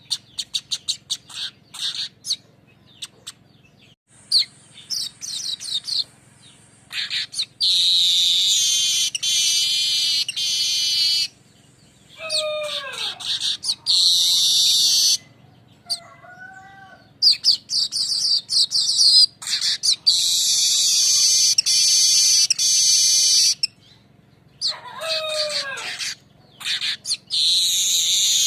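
Manyar weaver birds singing their harsh rolling song: quick runs of sharp chirps, then long buzzy, rasping trills lasting several seconds each, broken twice by a falling whistled note.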